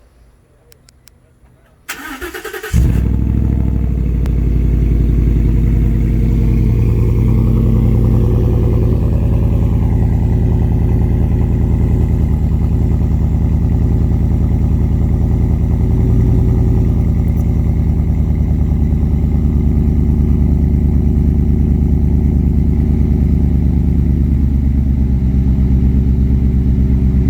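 2015 Ford F-150's 5.0-litre V8 cold-starting through a muffler-delete exhaust that keeps the factory resonator: the starter cranks briefly about two seconds in, the engine catches with a flare, then runs at a steady fast cold idle that eases down a little near the end.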